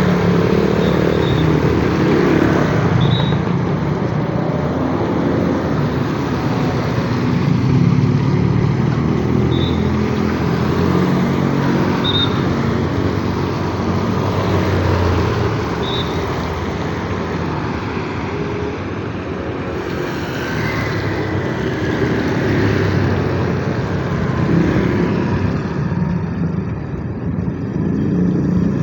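Road traffic in the rain: cars and motorcycles running past, their engines mixed with the steady hiss of tyres on the wet road, with a few short high chirps.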